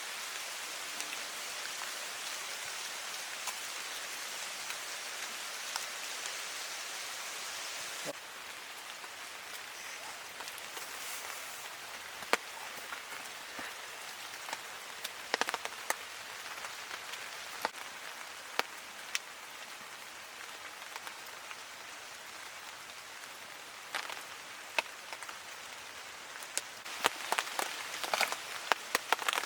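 Steady rain falling, a even hiss with scattered sharp drip taps. The hiss drops a little about eight seconds in, and the taps come thicker and louder near the end.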